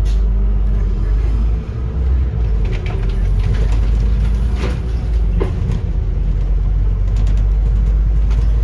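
Interior of a Scania N230UD Optare Olympus double-decker bus on the move: the diesel engine and road noise make a steady low rumble, with a few sharp rattles around the middle.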